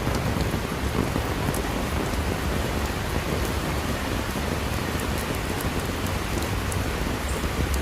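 Steady rain falling: an even hiss of water with scattered sharp drop ticks over a low rumble.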